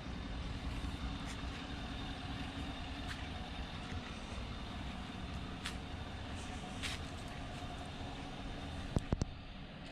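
Chevrolet Silverado's 5.3-litre V8 idling steadily on its stock exhaust, with a couple of sharp clicks about nine seconds in.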